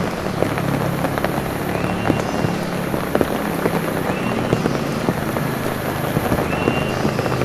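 Heavy rain falling steadily, with many sharp drops splashing on nearby surfaces. A low steady hum runs beneath it, and a short high chirp repeats about every two seconds.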